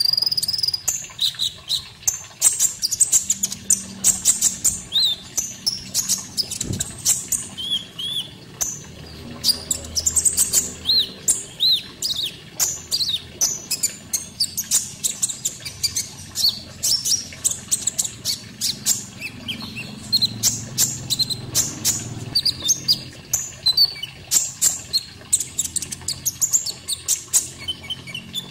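Konin songbird singing: a fast, unbroken run of short chirps, clicks and quick whistled notes, over a low, steady sound of water.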